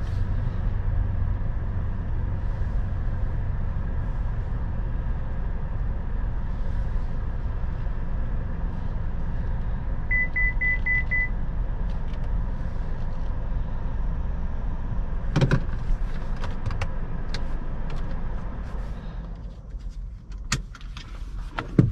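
Chevrolet Malibu's 1.35-litre turbo three-cylinder engine and tyres rumbling in the cabin as the car creeps into a parking space. Five short high beeps about ten seconds in, sharp clicks and knocks from about fifteen seconds, and the engine hum drops away about nineteen seconds in as the car comes to a stop.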